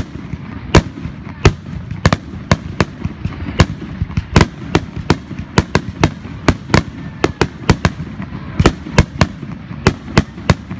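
Aerial fireworks shells bursting in quick succession, sharp bangs about two a second over a continuous low rumble of further explosions.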